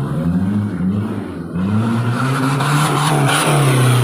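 Off-road race car engine revving hard, its pitch rising and falling, growing louder about halfway through.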